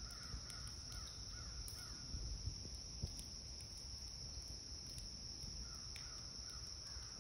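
Faint outdoor quiet with distant birds calling several times, like crows cawing, over a steady high-pitched drone and a low rumble. A few light knocks sound about two and three seconds in.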